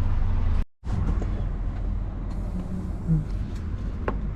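HGV lorry's diesel engine running steadily, a low drone heard from inside the cab, with a sudden brief cut-out just under a second in.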